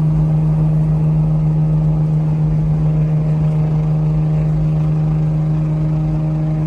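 Car engine and exhaust droning steadily while cruising on the highway: one deep, even hum that holds the same pitch throughout, over low road rumble.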